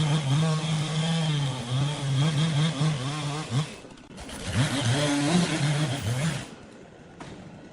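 Chainsaw engine running under load, its pitch wavering. It drops off about four seconds in, revs back up with a rising whine, and cuts out a little after six seconds.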